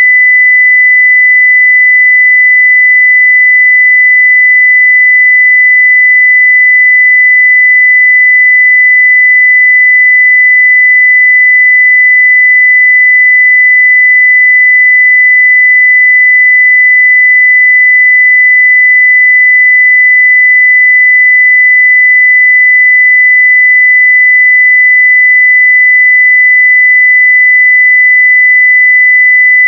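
A continuous pure 2 kHz sine-wave test tone at full level (0 dB), steady and unchanging.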